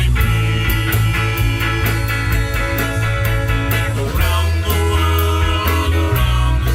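Psychedelic jam-rock band playing an instrumental passage live: guitar over bass and drums, with evenly spaced cymbal strikes several times a second. The bass shifts to a new note about four seconds in.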